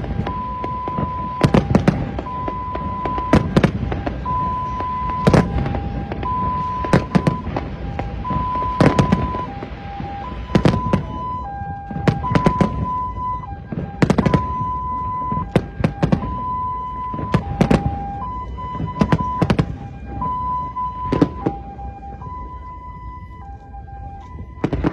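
New Year fireworks going off in a steady run of sharp bangs, one or two a second. Under them a two-note tone alternates high and low.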